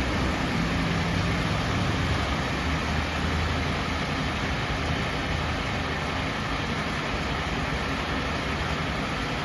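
Steady rain falling, with a fire engine's diesel engine running low underneath.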